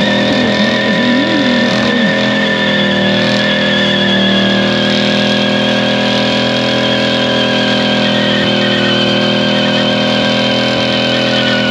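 Chevy C10 pickup doing a burnout: its 462 V8 held at high revs while the rear tires spin, giving a loud, steady, warbling tire squeal that sags slightly in pitch near the end.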